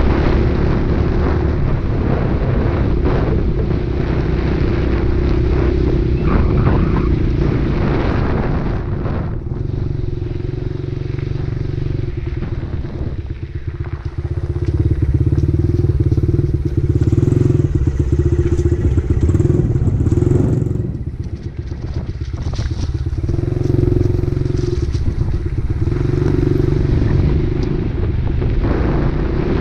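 Dirt bike engine running under way, the throttle easing off briefly about 13 seconds in and again around 21 seconds, then picking back up.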